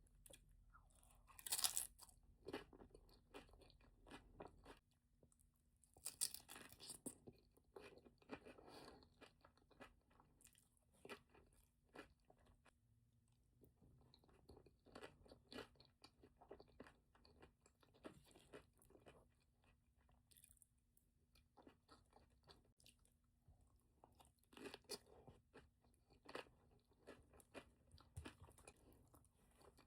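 Soft, close-miked eating sounds: a person chewing and crunching mouthfuls of a Chipotle bowl, with scattered small clicks and wet mouth noises. The loudest crunches come about 2 s in and again around 6 to 7 s.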